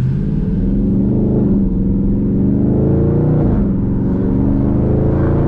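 A Dodge 392 Hemi V8 accelerating away from a standstill, heard from inside the cabin. The engine note rises, drops at an upshift about three and a half seconds in, then climbs again.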